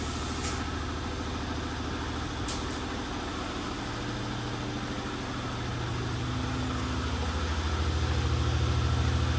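A vehicle engine idling steadily, getting louder about two-thirds of the way through, with two short ticks in the first three seconds.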